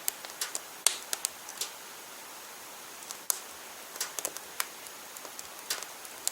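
Firewood burning in a wood stove-fireplace, crackling: irregular sharp pops and ticks over a faint steady hiss.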